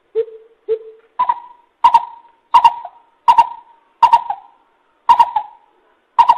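Coucal (bubut) calling: a run of hollow hoots, the first two lower, then the rest jumping to a higher pitch and repeating about one and a half times a second, each note with a sharp start.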